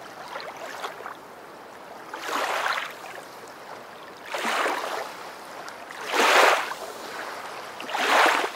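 Water splashing and washing in four short swells about two seconds apart, the loudest near the end.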